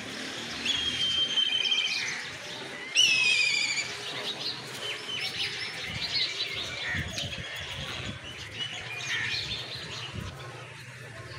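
Birds chirping and calling in trees: a wavering, whistled trill about three seconds in, then many short high chirps.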